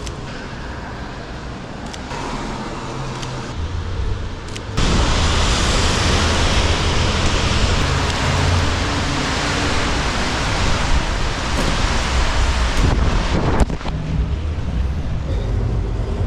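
Steady hiss of heavy rain with a low rumble of traffic on wet streets. It gets abruptly louder about five seconds in and eases a little near the end, with a few faint clicks.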